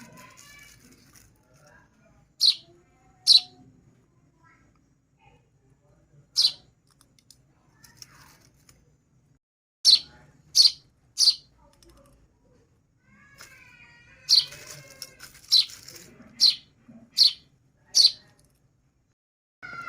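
Hand-fed baby bird chicks giving short, sharp, high-pitched peeps, the begging calls of chicks being fed. There are about a dozen, a few scattered at first and then a quicker run in the second half, with faint softer warbling among them.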